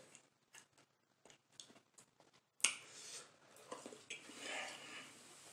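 A person chewing a spicy chicken nugget: soft, rapid mouth clicks, then a sudden louder rush of noise about two and a half seconds in that lasts about two seconds.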